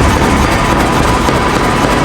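Loud, steady machine noise in a blacksmith's shop, with no clear beat.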